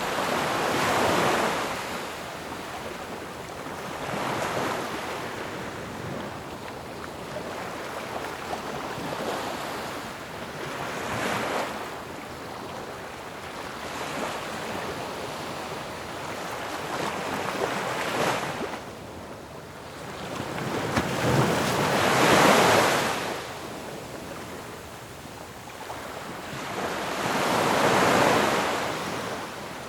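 Ocean waves crashing on a shore in a steady wash of surf, with about five louder breakers swelling and falling away, the strongest a little over two-thirds of the way through.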